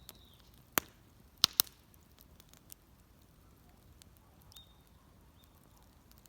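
Wood fire crackling: a few sharp, separate pops and cracks, the loudest three close together between about one and two seconds in, with smaller ticks between them and a brief faint high whistle later.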